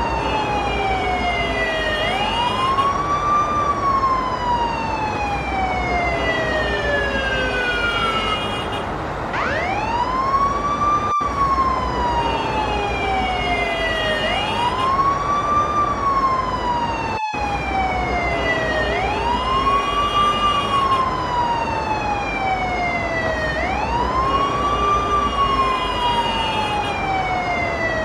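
Ambulance siren wailing: each cycle rises quickly, then glides slowly down, repeating about every four to five seconds, with short steady tones sounding over the falling part.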